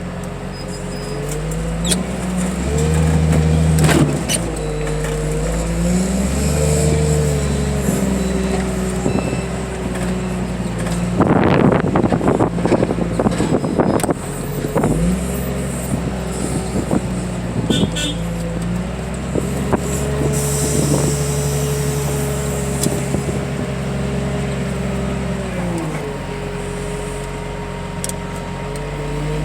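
Diesel engine of a heavy loading machine working its hydraulics, revving up and down in steps with a hydraulic whine. About eleven to fourteen seconds in there is a spell of loud metal clanking and banging as a heavy crushed-car bundle is handled.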